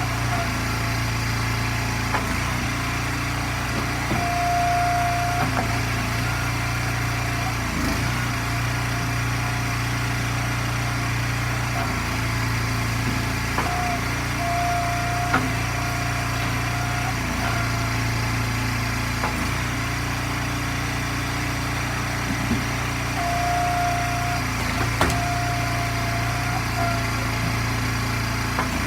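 Small gas engine of an Eastonmade log splitter running steadily, with a higher whine that comes and goes four or five times and scattered sharp knocks and cracks.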